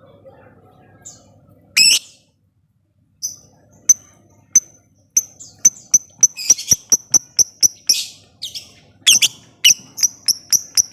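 Lovebird calling: a loud harsh squawk about two seconds in, then a run of short, sharp, high clicking chirps that speed up to several a second, with a brief chattering burst near the middle. This is the rapid typing-like ticking that keepers call 'ngetik'.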